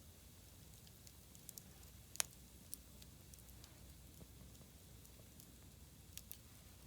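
Campfire wood crackling faintly, with scattered small snaps and one sharp pop about two seconds in.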